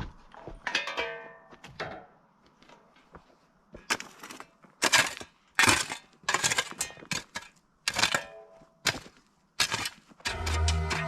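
A series of irregular knocks and clanks, some with a short metallic ring. Background music comes in about a second before the end.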